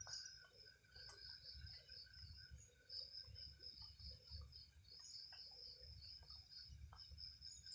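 Faint crickets trilling high-pitched in runs about a second long broken by short gaps, over a steadier lower insect chirping and a faint low rumble.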